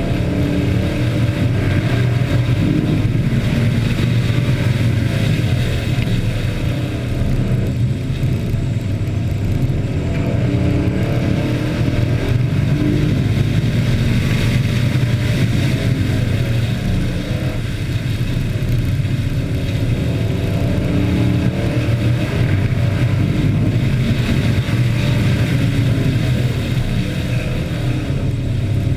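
Several hobby-class race trucks running hard around a short oval in a heat race, their engines a loud, steady drone that rises and falls a little as they go through the turns.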